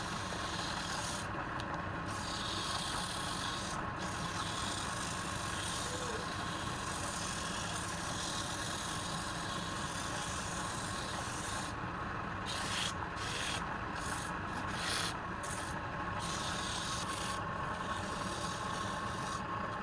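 Wood lathe running, with a tool or abrasive rubbing against the spinning wood. The scraping breaks off and resumes several times in the second half, while the motor keeps running.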